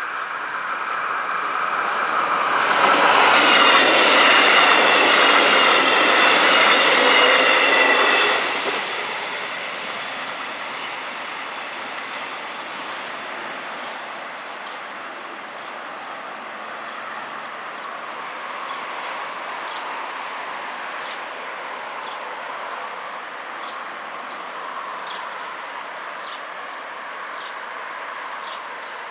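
A diesel multiple-unit train passing the level crossing: a loud rush of wheels on rail with a high metallic whine, building about two seconds in and dropping away after about eight seconds to a steady, quieter background.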